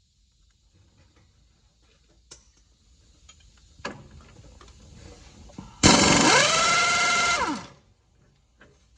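Pneumatic impact wrench run for about a second and a half, its pitch rising as it spins up and falling as it stops, after a few light clicks and a knock of tools and parts being handled.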